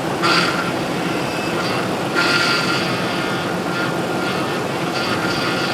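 2005 Ford F-150's power steering pump whining over the running engine, the whine swelling three times: about a second in, around two seconds and again near the end. The pump is unhappy because the system is still low on fluid after the return hose repair.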